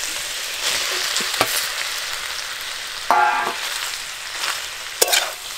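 Boiled fusilli pasta being stirred into fried, spiced chicken in a hot metal pan: steady sizzling, with a spatula scraping and clicking against the pan. A brief squeaky tone comes about three seconds in, and a sharp knock near the end.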